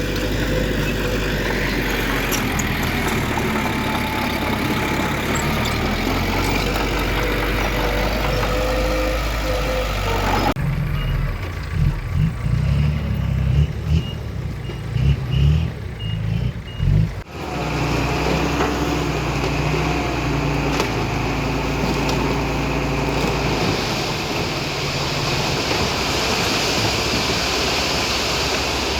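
Heavy diesel earthmoving machinery running steadily. Between about 10 and 17 seconds in, the sound switches abruptly to a deeper, more uneven engine sound, then switches back.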